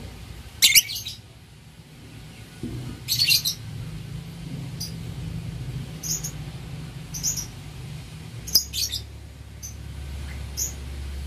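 A young lovebird giving short, shrill chirps about every one to two seconds, each lasting well under half a second, over a faint low hum.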